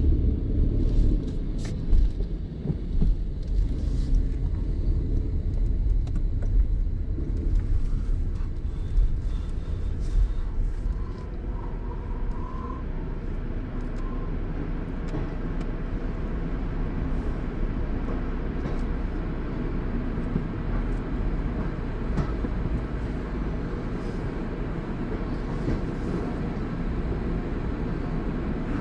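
Car wash equipment running: a steady low rumble with scattered clicks and knocks, busier in the first half and evener after that.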